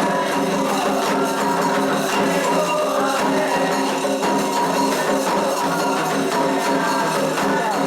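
Candomblé ritual music: fast, dense jingling and rattling percussion over steady pitched tones, at an even level throughout.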